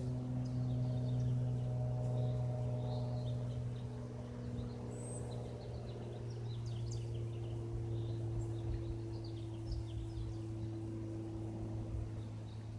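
Light propeller plane's engine droning steadily: a low hum with several higher tones above it, one of which drops slightly in pitch about halfway through, while the whole sound slowly fades. Small birds chirp faintly.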